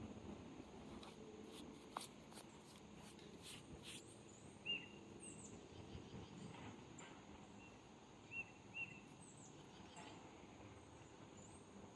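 Faint outdoor ambience with small birds chirping: short, high chirps repeating every second or two from about a third of the way in, and a few faint clicks in the first few seconds.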